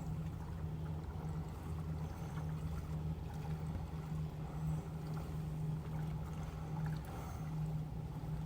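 An engine running steadily with a low, even hum and an underlying rumble.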